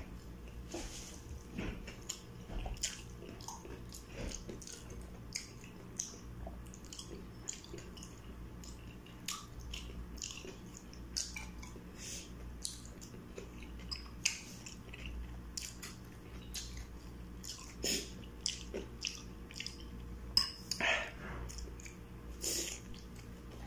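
Close-up chewing and biting of kwek-kwek, battered deep-fried quail eggs: scattered wet mouth clicks and smacks, with a few louder ones near the end.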